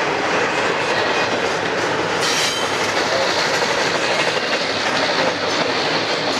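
Double-stack intermodal well cars rolling past close by, their steel wheels making a loud, steady running noise on the rails. A brief sharper burst of noise comes a little over two seconds in.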